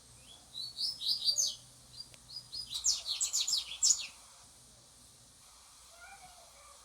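Double-collared seedeater (coleiro) singing: two quick phrases of high, rapid chirping notes, the second one denser and louder.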